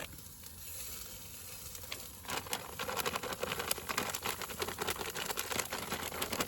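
Sausages and hash browns sizzling in a hot pan, the frying turning louder and more crackly about two seconds in.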